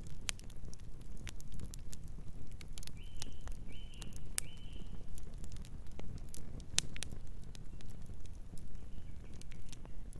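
Wood fire crackling, with irregular sharp pops and snaps over a low steady rumble of burning. About three seconds in, a bird gives three short calls in quick succession, and two fainter calls follow near the end.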